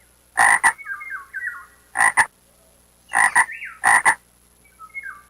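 Frogs croaking: four loud double croaks, with softer short calls in between.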